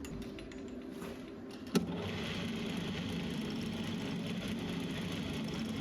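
A small metal lathe is switched on with one sharp click about two seconds in, then its motor and gearing run up to a steady, even hum with a high whine.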